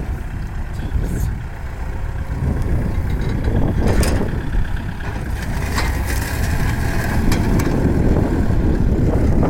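Kubota farm tractor's diesel engine running steadily and growing gradually louder, with a few short knocks or rattles about four and six seconds in.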